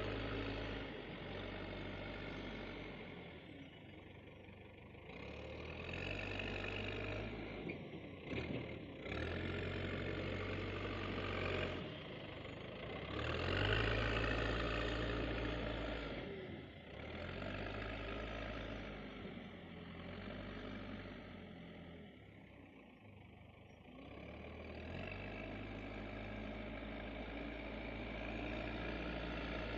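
Heavy diesel machinery engine running under varying load, its sound swelling and falling off several times.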